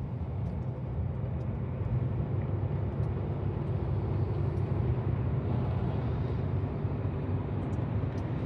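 Heavy truck's diesel engine running steadily, a low hum with even noise over it.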